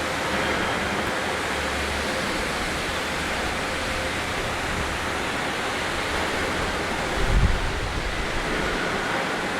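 Steady, even roar of factory machinery, with a brief low rumble about seven seconds in.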